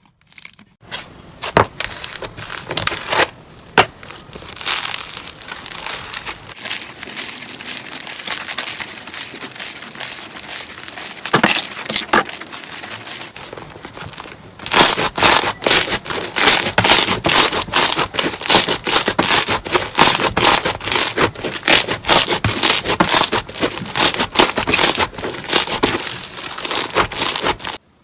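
Slime being handled, crackling and popping in dense clicks that get louder and come thick and fast through the second half.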